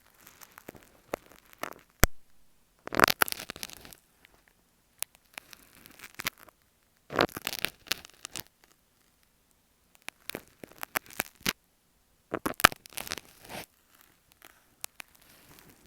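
Marking pins scratching and tapping on an earphone microphone, held close. The sound comes in irregular bursts of crackly scratching, with sharp single clicks and short quiet gaps between them.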